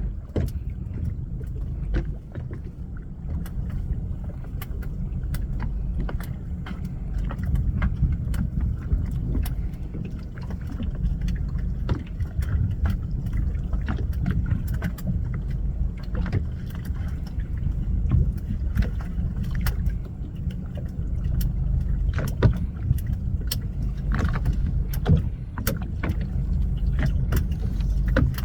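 Steady low rumble of wind and sea around a small fishing boat, with scattered sharp knocks and clicks throughout.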